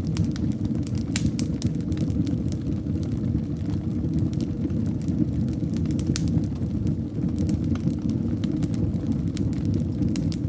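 Wood fire in a fireplace burning, with a steady low rumble of flames and frequent irregular crackles and sharp pops.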